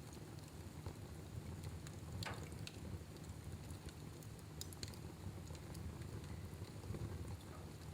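Fire burning in a fireplace: a steady low rumble with scattered sharp crackles and pops, a clearer pop about two seconds in.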